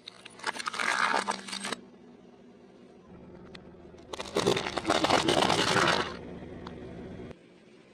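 A car tyre rolling over food and crushing it: two loud bursts of crunching and crackling, the first about half a second in and the second about four seconds in and longer. A low steady hum runs under them and cuts off near the end.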